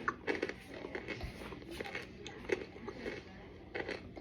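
Close-up biting and chewing of hardened cornstarch prepared by steaming and microwaving: a string of irregular crisp crunches.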